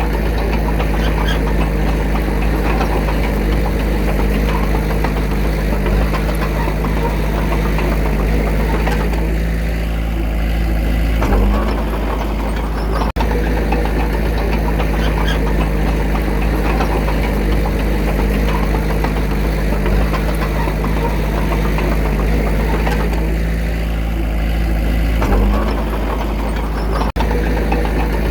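Diesel engine of a small earthmoving machine running steadily, its note lifting briefly twice. There are two very short dropouts in level, about halfway and near the end.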